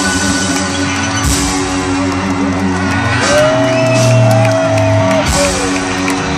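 A live rock band holds a sustained ringing chord. About three seconds in, an electric guitar slides up to a high note and holds it for about two seconds, then drops away.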